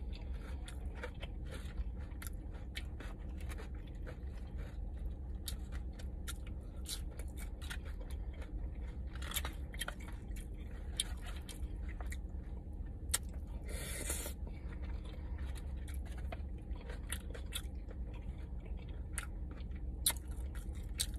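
Close-miked chewing of food, with many small, sharp wet mouth clicks and an occasional crunch, over a low steady hum. A brief rustle comes about two thirds of the way in.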